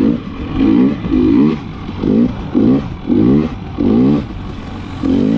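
KTM 300 XC-W TPI two-stroke dirt bike engine revving in about eight short bursts, rising and falling as the throttle is opened and shut over and over, the rhythm of riding through sand whoops.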